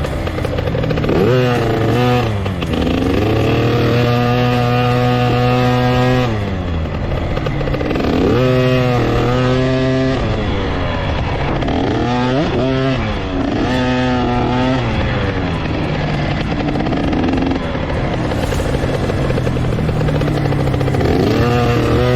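Small two-stroke motocross bike engine revving hard and easing off again and again, its pitch climbing, holding briefly, then dropping every few seconds as the rider works the throttle around the track.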